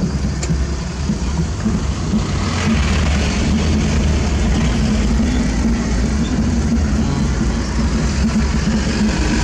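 Heavy diesel engine of construction machinery running steadily at a dirt-dumping site, getting louder about two and a half seconds in with added rushing noise.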